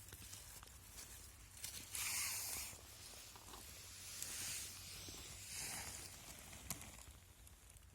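Rustling in dry leaves and forest litter, in three short bursts with a few small clicks and snaps between them, as someone moves about and picks mushrooms.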